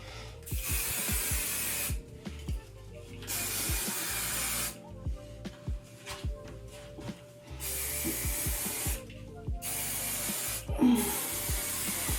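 Hairspray sprayed onto styled hair in five long hissing bursts, each about a second or more, with short pauses between them.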